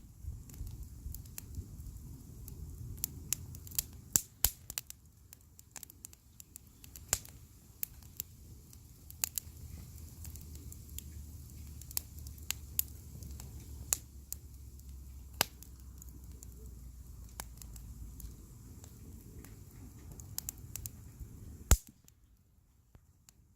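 Wood fire crackling, with frequent sharp pops over a steady low rumble; one especially loud pop comes near the end, after which it is quieter.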